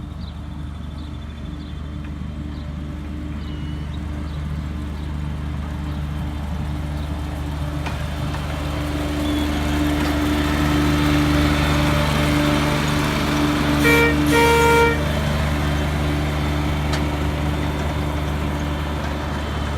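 A 1/3-scale park train's engine running steadily, growing louder and then easing off, with two short toots of its horn about two-thirds of the way through.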